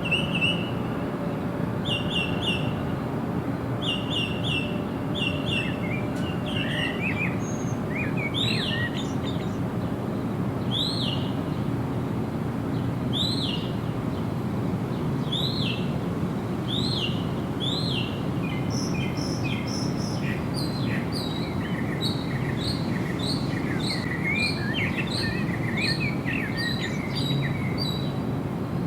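Songbirds chirping over a steady low rushing background noise. Short chirps come in twos and threes at first, then single arched notes about every second and a half, and in the last third a busier run of quick notes from more than one bird.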